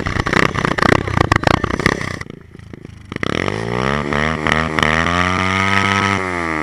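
Motorcycle engine running with a clattering, uneven sound, dropping off briefly, then revving up about three seconds in and holding a steady high note before easing off slightly near the end.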